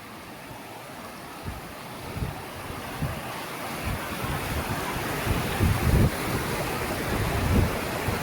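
Rushing water of a river waterfall, a steady hiss that grows gradually louder, with wind gusting on the microphone in low rumbles, strongest about two-thirds of the way in.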